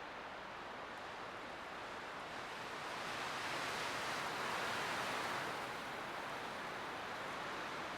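Light wind blowing steadily, swelling into a gust about three seconds in and easing off again a little before six seconds.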